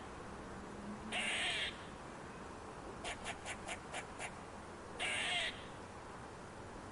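Harsh, hissing screech calls from an animal, each about half a second, twice. Between them comes a quick run of about six short clicks or chirps.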